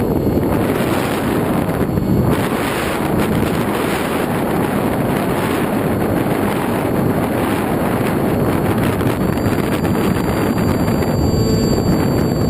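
Airflow buffeting the onboard camera microphone of an FX-61 flying-wing RC model in flight: a loud, steady rushing, with a faint thin high whine over it.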